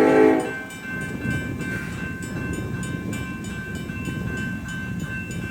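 A diesel freight locomotive's horn chord cuts off about half a second in, leaving a slow freight train rumbling through a grade crossing. The crossing bells ring steadily over it, striking about four to five times a second.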